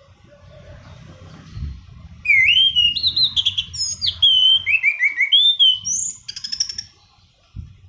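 Anis cendana thrush singing a loud burst of varied whistled phrases, with sliding and slurred notes and quick rattling trills. It starts about two seconds in and stops about a second before the end, over a low rumbling background noise.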